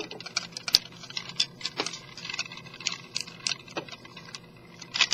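Irregular small plastic clicks and rattles as the parts of a Transformers Generations Sandstorm action figure are folded and snapped into place by hand, with a sharper click a little under a second in.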